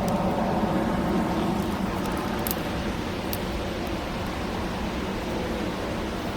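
Steady rumbling background noise with a low hum running through it, and a few faint, very short high ticks.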